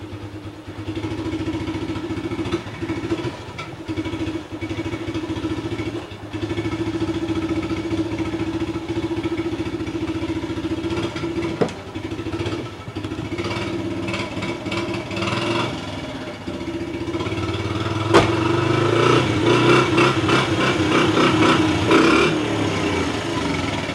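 A small vehicle engine running with a rattling clatter. It picks up revs and gets louder from about two-thirds of the way in, with a sharp knock just after.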